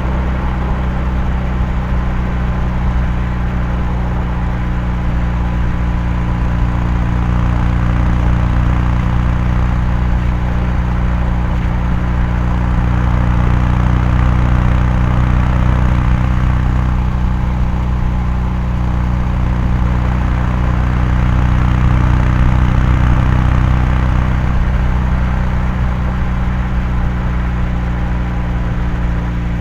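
Kawasaki Meguro K3's air-cooled parallel-twin exhaust at a steady highway cruise, a constant low note that swells slightly twice as the throttle is eased on.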